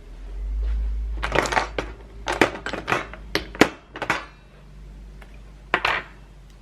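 Dishes clattering: a quick run of sharp clinks and knocks over a low rumble, then one more knock near the end.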